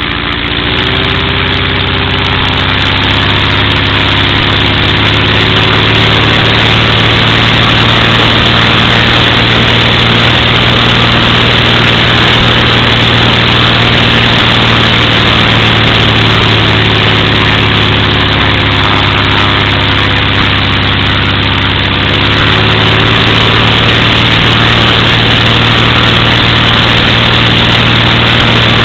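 Continental O-200 four-cylinder air-cooled aircraft engine turning a propeller on its first ground run-up. It picks up speed in the first second or two and runs steadily. It eases back a little about two-thirds of the way through, then picks up again.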